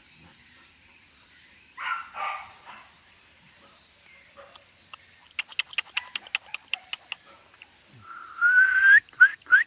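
A Jindo dog gives two short barks about two seconds in. Midway comes a quick run of about a dozen sharp clicks, then near the end a rising whistle-like call followed by two short rising chirps.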